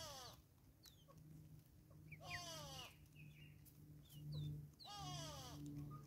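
Three harsh, falling bird calls about two and a half seconds apart, each about half a second long, with short high chirps of small birds between them. A low steady hum comes in after about a second.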